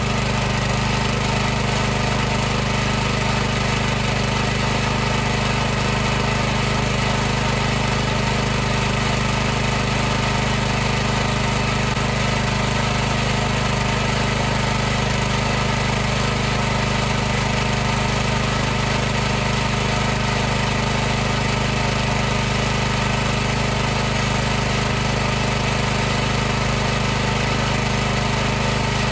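High-pressure washer running steadily: a constant low motor-and-pump hum with an even hiss over it, unchanging throughout.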